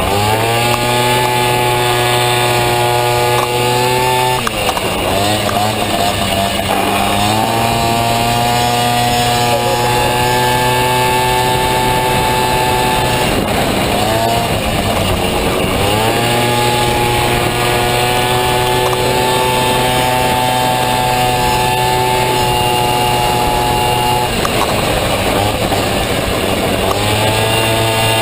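Two-stroke Honda Dio scooter engine in a Honda Motocompo racing on a track: the revs climb quickly and hold high and steady for several seconds. Three times the pitch falls back as the throttle is eased, then climbs again.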